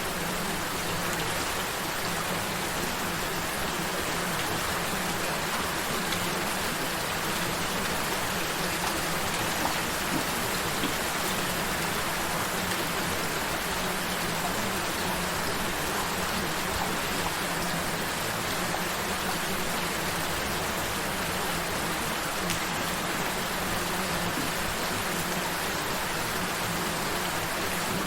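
Steady gentle rain falling on a surface, an even hiss with scattered drop ticks. A low steady hum runs underneath.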